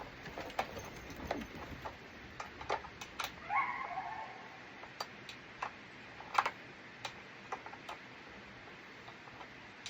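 Irregular light clicks and clinks of a wrench and metal parts as an old lawn mower is worked on, the sharpest about six and a half seconds in, with one short squeak about three and a half seconds in.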